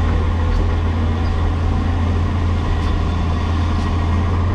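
Diesel engine of a Cat 336E hydraulic excavator running steadily, a loud low hum with no change in speed.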